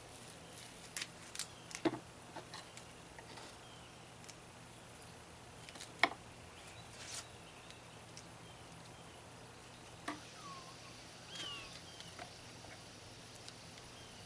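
Quiet outdoor ambience with a few short, falling bird chirps, the clearest a little after ten seconds in. Scattered light clicks and taps, the sharpest about two and six seconds in, come from the brush and cup being handled at the workbench.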